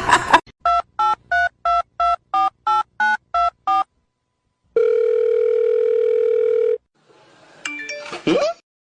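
Touch-tone telephone keypad dialing about ten digits in quick succession, each a short two-tone beep, then one steady tone lasting about two seconds. A brief, quieter sliding sound follows near the end.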